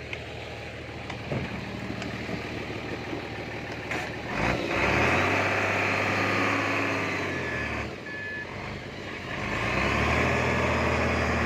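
Bulldozer's diesel engine running and revving up under load about four seconds in. It eases off around eight seconds, then revs up again near the end.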